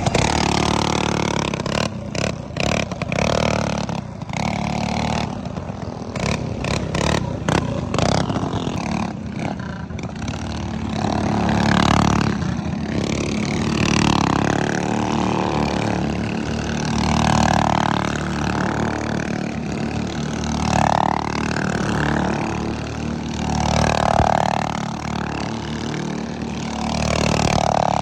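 Minibike engine running under way, swelling and easing every two to three seconds in the second half, with a rapid clattering in the first several seconds.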